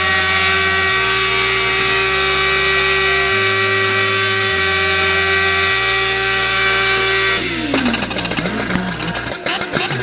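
A motorcycle engine held steady at high revs for about seven seconds, then the revs drop and waver, with a run of sharp crackles near the end. A music track with a stepping bass line plays underneath.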